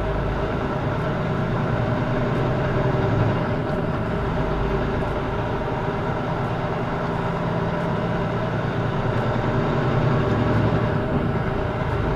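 Semi-truck's diesel engine running steadily under the road noise of the moving truck, a constant loud rumble with a low engine drone.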